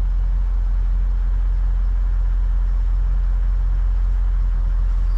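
Range Rover L405 engine idling steadily, heard from the driver's seat, with a low, even hum.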